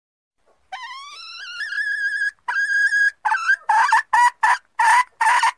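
Junglefowl hen lure call. About a second in, a long note rises in pitch and is held high. A second held note follows, then a quick run of short notes, about two or three a second.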